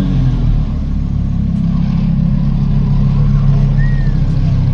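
A car engine running at a steady low speed, a deep even drone.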